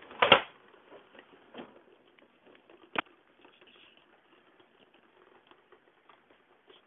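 Rain falling steadily, a faint pattering of many small drops. A loud, short bump comes just after the start, and a single sharp click about three seconds in.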